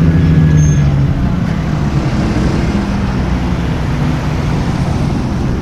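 Car engine running at low revs, a steady low drone that thins out and drops back about a second in, leaving a low rumble.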